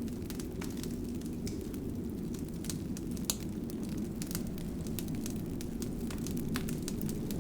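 Wood fire burning in a fireplace: a steady low rumble of flames with frequent irregular sharp crackles and pops, one louder pop about three seconds in.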